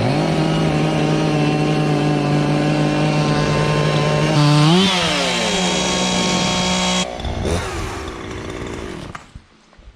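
Chainsaw engine revving up and running at high speed, with a brief rise and fall in pitch about five seconds in; it drops off sharply about seven seconds in and dies away near the end.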